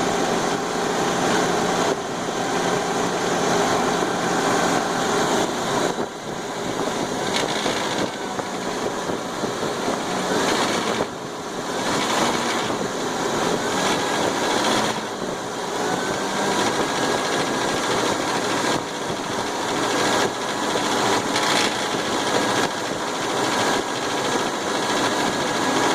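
Suzuki Grand Vitara engine running steadily, with a noise from the top of the engine that persists even though the gears have been replaced.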